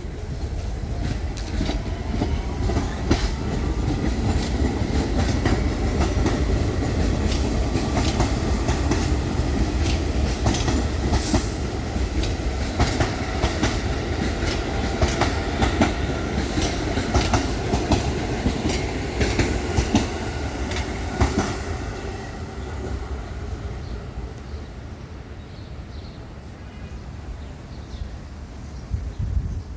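New York City subway train passing on the BMT Brighton Line: a steady rumble with many sharp wheel clicks over the rail joints and a rising motor whine in the first few seconds. The sound fades away over the last several seconds.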